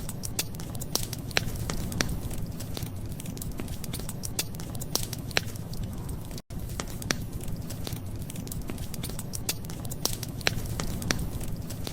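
Wood fire crackling, with irregular sharp pops over a low steady rumble. The sound drops out completely for an instant about six and a half seconds in.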